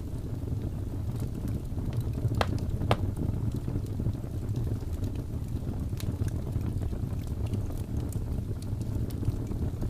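Wood fire burning in a fireplace: a steady low rumble of flame with scattered faint crackles and a few sharp pops, two of them about half a second apart a couple of seconds in and another about six seconds in.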